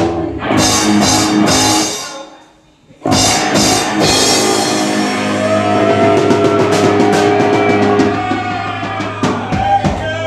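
Live rock band with drum kit and electric guitar: a run of hard hits together, a sudden drop to near-quiet about two seconds in, then a long held chord that slowly fades with a quick drum run near the end, the ending of a song.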